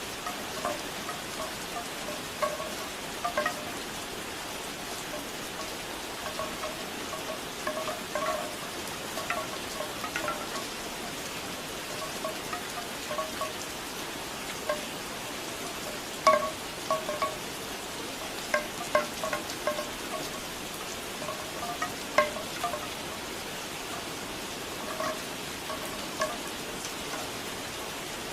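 Bamboo wind chimes clacking in irregular clusters of short, hollow tones over steady rain.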